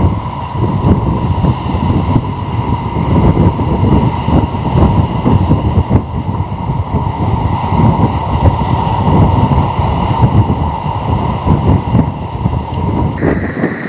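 Strong wind buffeting a phone's microphone: a loud, continuous rumbling rush with a steady faint whine running through it.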